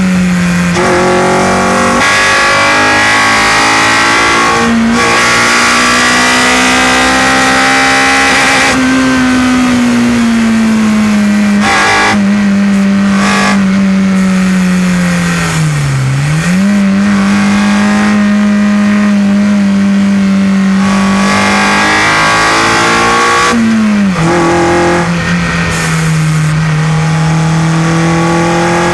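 Honda Civic Type R EP3's 2.0-litre four-cylinder i-VTEC engine running hard through a well-baffled exhaust, with intake noise. Its pitch holds high, sags slowly, dips sharply and recovers about halfway through, then drops again near the end and holds steady.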